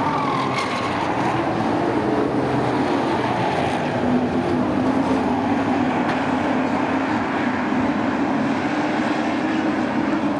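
A field of short-track sport trucks racing on the oval, their engines making a dense, steady, overlapping drone that shifts slightly in pitch as they run at speed.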